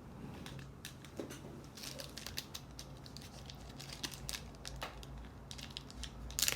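1992-93 Upper Deck trading cards being handled and flipped through: a scattered run of short clicks and rustles of card stock, the loudest one near the end.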